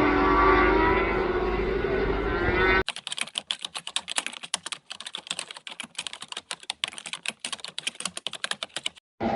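A racing motorcycle engine on track, its pitch gliding slightly, for about the first three seconds. It cuts off suddenly, giving way to a quieter, fast, irregular run of sharp clicks lasting about six seconds, whose source is not shown.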